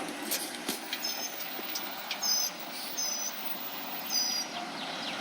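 Recycling truck running with steady road and engine noise and light rattling, broken by short high squeaks about once a second.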